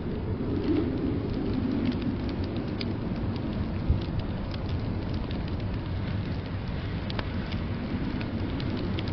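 Fireplace crackling with scattered sharp pops over the steady low rumble of a blizzard's wind, with one louder low thump about four seconds in.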